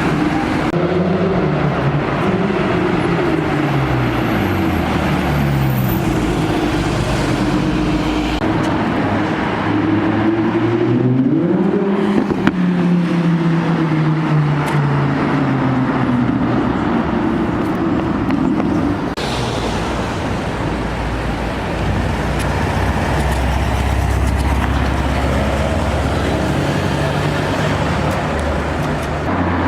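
Car engines on a city street, their pitch climbing and falling repeatedly as they accelerate and shift, with one rising then dropping sharply in pitch about twelve seconds in. A deep steady engine rumble fills the last several seconds.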